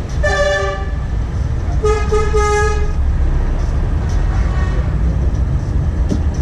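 Truck horn sounding twice: a short blast, then a longer one about two seconds in, over the steady low rumble of a truck engine.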